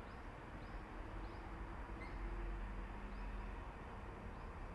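Low rumble of an electric commuter train running away into the distance, swelling slightly midway. Faint high chirps repeat about every half second.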